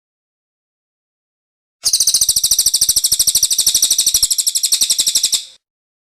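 Cililin songbird singing one fast trill of sharply repeated high notes, about nine a second, starting nearly two seconds in and lasting about three and a half seconds before stopping.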